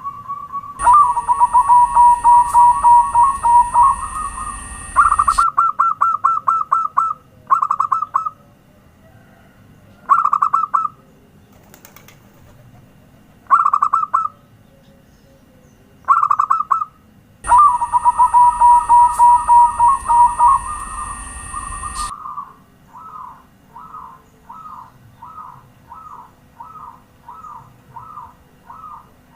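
Zebra dove (perkutut) song: rapid staccato cooing phrases around one pitch, then short bursts separated by pauses, and near the end a slower run of evenly spaced single coos. The same long cooing phrase comes twice, as in a looped recording.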